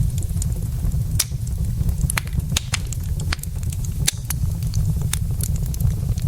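Wood logs burning in a fireplace: irregular sharp crackles and pops, several each second, over a steady low rumble.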